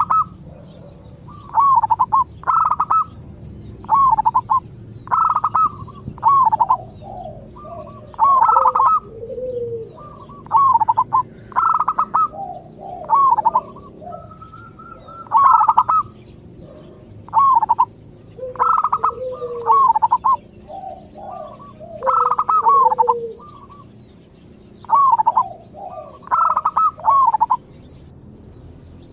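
Zebra dove (perkutut) cooing: short phrases of quick, rolling coos repeated every second or two, some trailing into lower notes.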